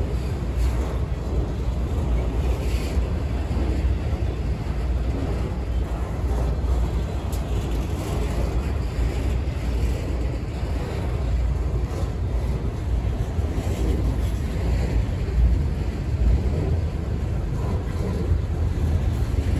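Freight train rolling past: a steady low rumble with wind buffeting the microphone.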